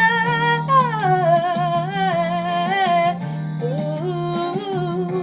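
A singer's wordless vocal run, hummed and sung on gliding, wavering notes over a steady low musical accompaniment.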